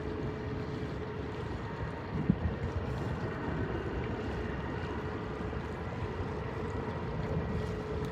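Distant jet airliner engines running with a steady low rumble and a faint steady whine, mixed with wind on the microphone. A brief knock about two seconds in.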